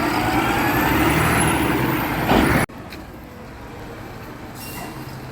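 Garbage truck engine running hard with a rising whine, then a short loud burst that may be an air-brake hiss. The sound cuts off suddenly after about two and a half seconds, leaving a quieter low rumble.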